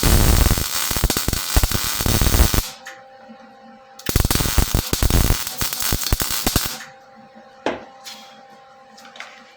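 MIG welder striking and running two short welding bursts, each about two and a half seconds of crackling, with a pause of about a second and a half between them. A steady hum sounds between the bursts, and a sharp click comes near the end.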